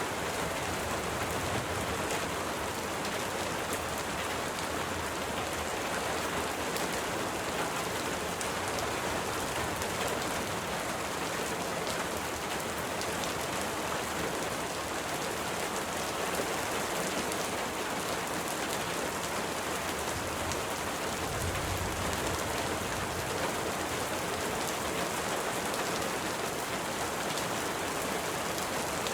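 Steady rain, an even hiss with a fine patter of drops, with a brief low rumble about two-thirds of the way through.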